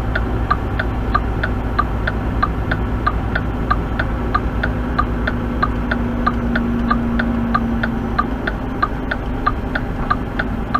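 Truck's indicator flasher ticking evenly, about three clicks a second, over the low steady hum of the idling engine inside the cab.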